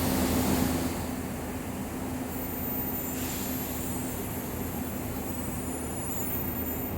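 Steady running sound of a DEMU (diesel-electric multiple unit) train: a constant low diesel engine hum with a droning tone over a noise bed.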